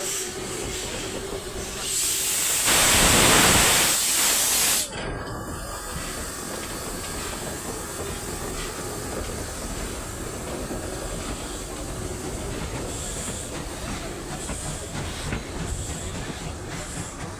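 Railway train with a loud burst of hissing air starting about two seconds in, lasting about three seconds and cutting off suddenly, over a steady low running noise.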